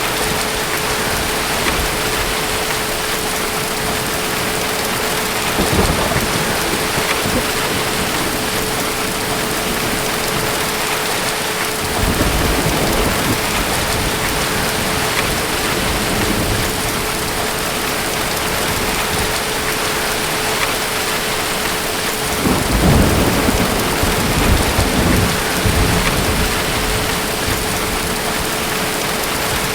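Steady heavy rain with several low rolls of distant thunder, the strongest rumble about three-quarters of the way through. A faint steady hum runs underneath.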